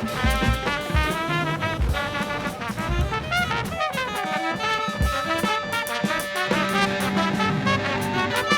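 Live jazz band playing: trumpet and saxophone lines over drum kit and bass, with a held low note coming in about two-thirds of the way through.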